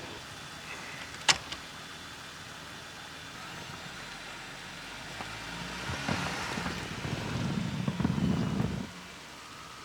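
Jeep engine running, growing louder for a few seconds before dropping back near the end, with one sharp click about a second in.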